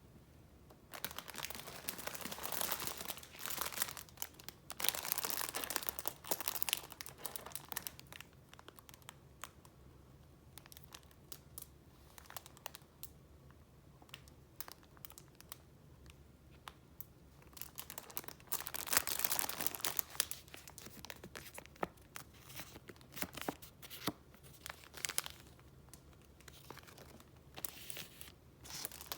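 Paper rustling and crinkling as sheets are handled, coming in irregular bursts with small clicks and taps between them. The louder stretches come about a second in, around five to seven seconds, and again near the middle.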